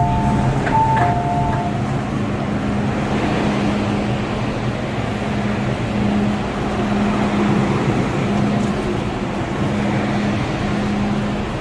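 At the start, the door warning chime sounds as alternating two-note beeps. After it, the MTR M-Train electric multiple unit runs steadily, a constant low hum over running noise.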